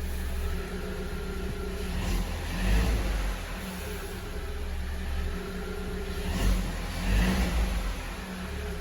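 MG 550 engine idling while it warms up after a piston-knock repair, running without any knock. Its sound swells briefly twice, about a third of the way in and near the end.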